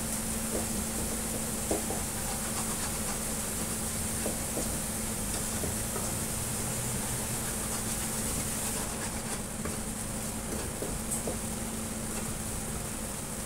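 Food frying in a pan with a steady sizzle, and a spatula stirring and scraping with small clicks now and then. A steady low hum runs underneath and stops near the end.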